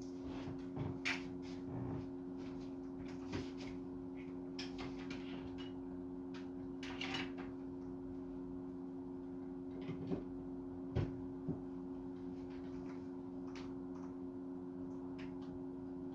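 Scattered household knocks and clicks, like things being handled or a cupboard or door moved, over a steady low electrical hum; the sharpest knocks come about a second in and about eleven seconds in.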